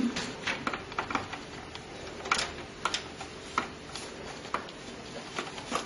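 Scattered light clicks and taps, irregular and a second or so apart, from hands handling parts and cables inside a desktop PC case.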